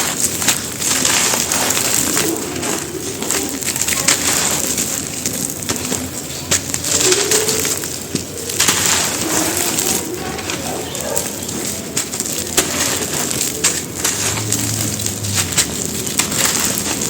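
Crumbly chunks of gravel-and-cement (bajri) being crushed and crumbled, a dense crackling crunch, with pigeons cooing in the background.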